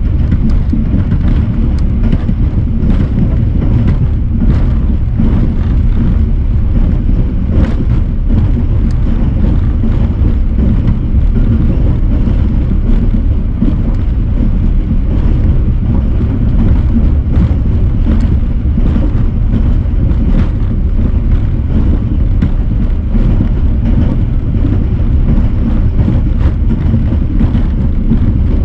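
Passenger train running along the track, heard from on board: a steady, loud, low rumble with wind buffeting the microphone and occasional sharp clicks.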